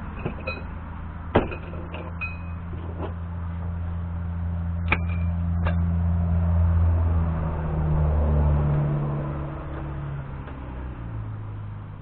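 A motor vehicle's low engine drone that swells and then fades, shifting in pitch as it passes, with a few sharp metal clinks of hand tools, the loudest about a second in.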